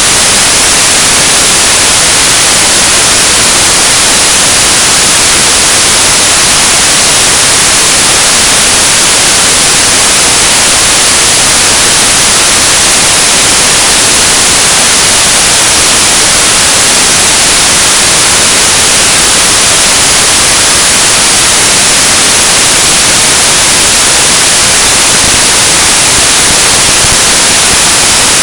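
Loud, unbroken static hiss like white noise, with no other sound standing out: the audio track is corrupted ('jacked up sound').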